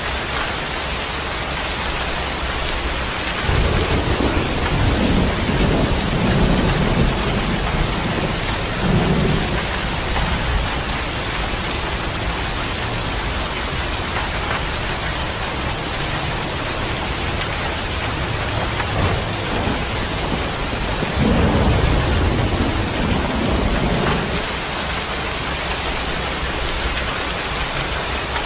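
Steady rain, with two long rolls of thunder: one starting about three seconds in and lasting several seconds, the other a little past the middle.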